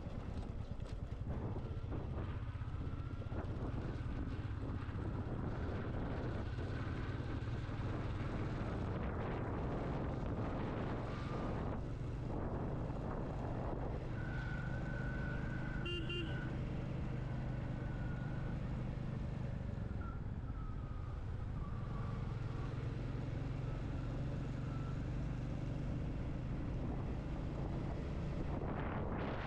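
Motorcycle engine running steadily under way at road speed, with road and wind noise. A brief higher tone sounds about halfway through.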